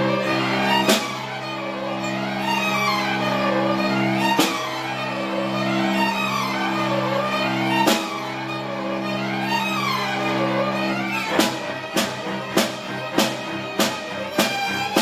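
Elementary school orchestra playing film music: bowed strings hold low chords under a winding melody. A single percussion hit lands every few seconds, and near the end a steady beat of hits sets in, about one and a half a second.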